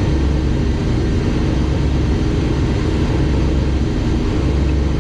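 Turbocharged 6.0-litre race-truck engine idling steadily, with a low rumble that swells and eases every second or so. It is idling smoothly, like a stock 6.0.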